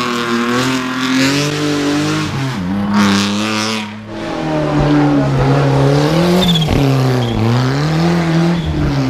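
Rally car engine heard onboard at full song, revving up through the gears with quick shifts. It lifts off and drops in revs about four seconds in, then pulls hard again with several rises and falls in pitch.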